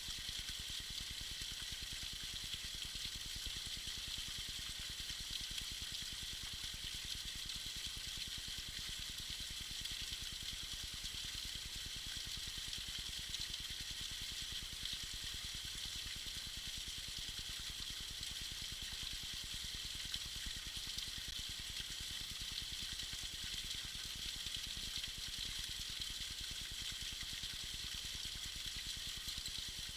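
Small trickling waterfall: a steady, fairly high splashing hiss of water falling over rock and ice.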